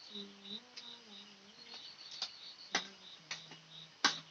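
Crickets chirping steadily in a high pulsing trill, with four or five sharp clicks of small hard objects, the loudest near the end, and a faint low hum.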